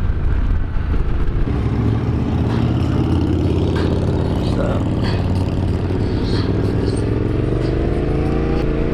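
Yamaha Ténéré 700's parallel-twin engine running under way, its pitch rising steadily over the last few seconds as the motorcycle accelerates.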